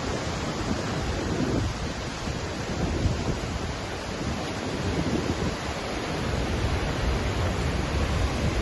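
A waterfall's water rushing steadily, with a low rumble that swells and fades every few seconds.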